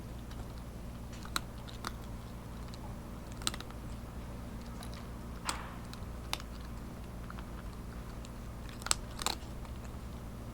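A cat crunching dry kibble close to the microphone: about seven sharp, irregular crunches over a steady low hum.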